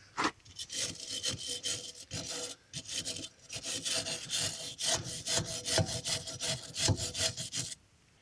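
Rust being scrubbed by hand off the metal of a drum brake where the wheel cylinder mounts, in quick back-and-forth rasping strokes that stop near the end.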